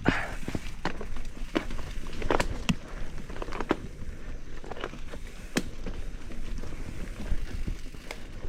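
Mountain bike rattling over a rough dirt descent: irregular clicks and knocks from the frame and wheels over a steady rumble of rolling tyres.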